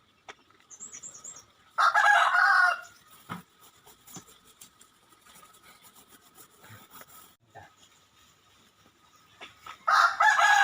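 A rooster crowing twice, a shorter crow about two seconds in and a longer one starting near the end that falls away at its close. A small bird gives a brief high chirp about a second in.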